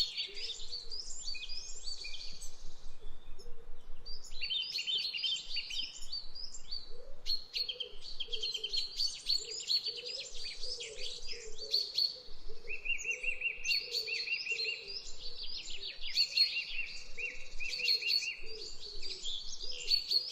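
Songbirds singing, many chirping and warbling phrases overlapping at once. A fast, evenly repeated trill comes in about thirteen seconds in and again near the end.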